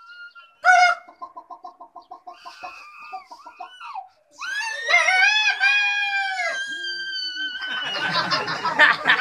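A man imitating chickens with his voice: a sharp squawk, a quick run of clucks, then a long rooster crow. Laughter breaks out near the end.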